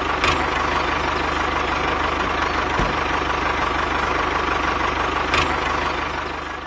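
Small engine of a DIY mini tractor running steadily with a fast, even low chug. It is broken by two sharp clicks, one just after the start and one about five seconds later, and dies down near the end.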